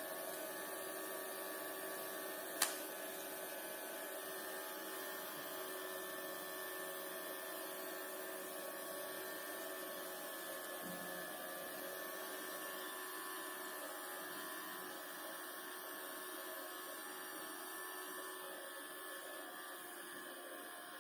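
Small battery-powered DC motor spinning a plastic fan inside a homemade water-bottle vacuum cleaner model, giving a quiet, steady whine that rises a little at first and then holds. A single sharp click sounds about two and a half seconds in.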